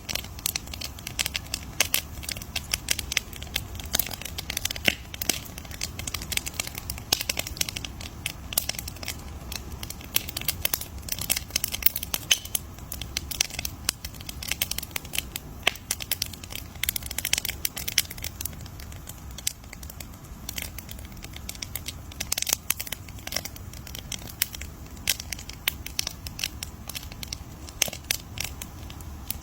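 Wood campfire crackling: dense, irregular pops and snaps over a low steady rumble of the burning fire.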